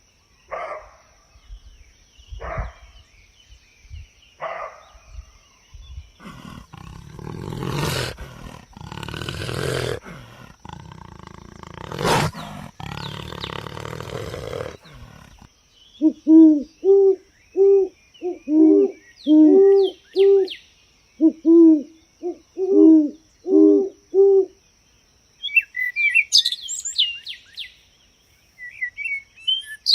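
A series of animal calls: a few short cries about two seconds apart, then loud rough calls, then a quick run of repeated hooting notes, and small birds chirping near the end.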